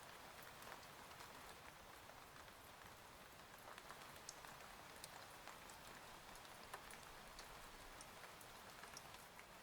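Faint steady rain: an even hiss with many scattered sharp ticks of drops striking a surface.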